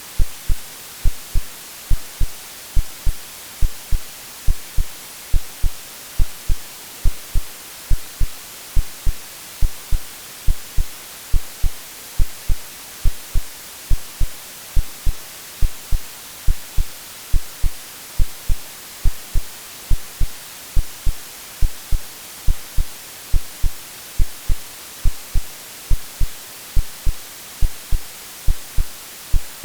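AI-generated heartbeat, a steady double thump (lub-dub) about once a second, over continuous white-noise hiss. It is made to resemble what a baby hears in the womb.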